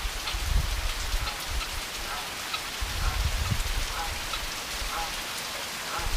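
Light, calm rain falling steadily, with many individual drops ticking. There is a low rumble twice, about half a second in and again about three seconds in.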